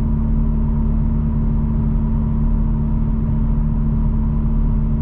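2021 Toyota Supra exhaust with a muffler delete and aftermarket downpipe, heard inside the cabin while cruising at a steady 60 mph. It is a loud, unchanging low drone holding one steady pitch, the exhaust drone the owner calls terrible.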